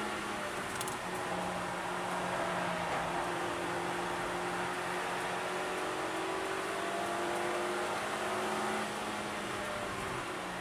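Suzuki Swift Sport's four-cylinder engine pulling steadily at speed, heard from inside the cabin over tyre and wind noise, with a nearly level engine note; the sound eases slightly near the end.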